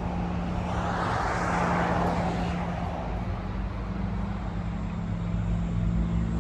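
A motor vehicle going by, a swell of noise about one to three seconds in, over a steady low engine hum.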